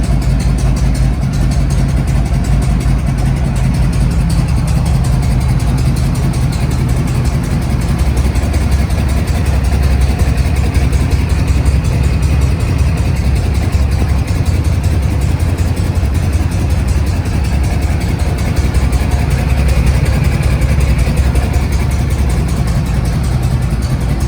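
1976 Harley-Davidson FLH 1200's Shovelhead V-twin engine idling steadily.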